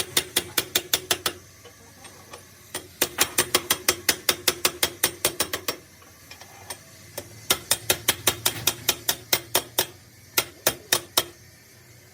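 Hand ratchet wrench clicking in quick runs of about seven clicks a second, four runs with short pauses between, as bolts are turned on an engine being worked on.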